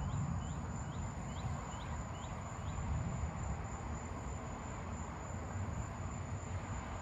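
Steady low rumble, settling after a louder swell just before, with seven short rising chirps, about two to three a second, in the first three seconds.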